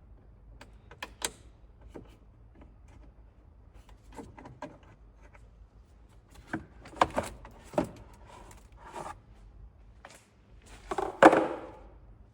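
Hand work in a car engine bay: scattered clicks and knocks as plastic clips and the air intake pipe are worked loose, with a louder clatter near the end.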